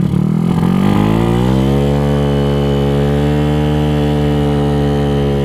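Single-cylinder four-stroke GY6 scooter engine, bored out to 88cc, picking up revs over the first two seconds and then holding a steady pitch.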